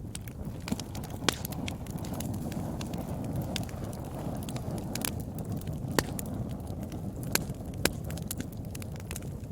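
Fire burning in a fireplace: a steady low rush of flames with frequent crackles and several loud, sharp pops scattered through it.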